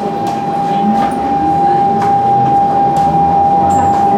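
Siemens C651 train's GTO-VVVF traction equipment whining as the train picks up speed: a steady high tone held throughout, with a lower whine rising in pitch, over wheel and running noise.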